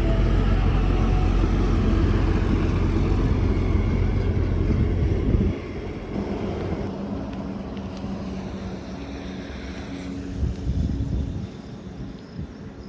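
Heavy diesel trucks passing on a highway: a loud low engine and tyre rumble that drops off suddenly about halfway through, then a quieter steady engine hum that fades away.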